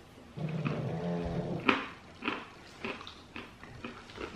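A closed-mouth "mmm" hum of enjoyment, then crunchy chewing of a mouthful of peanuts, almonds and walnuts: about five sharp crunches a little over half a second apart, the first the loudest.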